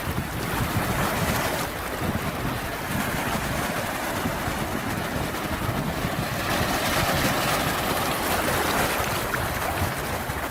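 Sea waves washing in steadily with some wind, a continuous hiss of surf that swells a little louder for a few seconds in the second half.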